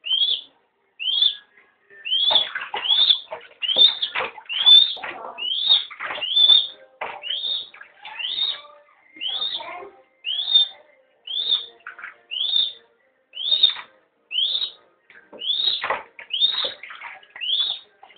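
A bird chirping over and over: a short, high call that rises and then drops, repeated a little more often than once a second, with bursts of rustling noise under many of the calls.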